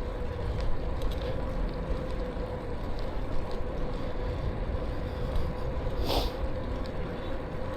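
Riding noise from a moving e-bike: wind rumbling on the microphone and tyre noise, with a thin steady hum under it. There is one brief, sharper sound about six seconds in.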